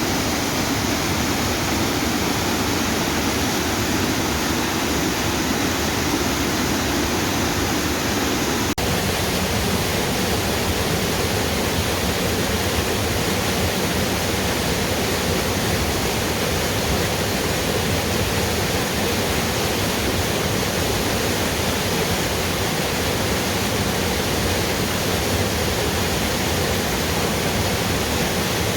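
Waterfall: steady rushing and splashing of falling water. About nine seconds in it breaks off for an instant and carries on with a slightly different, less deep tone.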